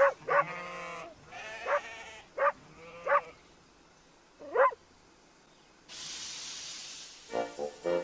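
Flock of sheep bleating: about six short bleats over the first five seconds. Then a steady hiss for about a second and a half.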